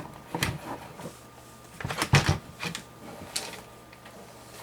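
Scattered light clicks and knocks of small parts being handled while working on a PC case, as loose screws are hunted for and picked up, with a louder cluster about two seconds in. A faint steady low hum runs underneath.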